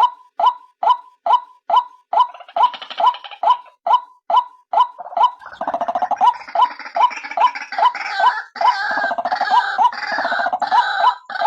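Female white-breasted waterhen lure call: a loud, steady series of short repeated notes, about two and a half a second. A busier chattering layer joins in briefly early on and then stays from about halfway.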